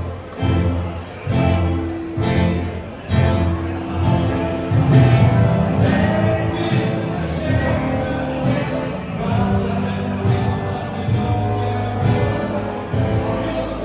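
A rock band playing live, with a steady beat of regular percussive hits under sustained chords and singing.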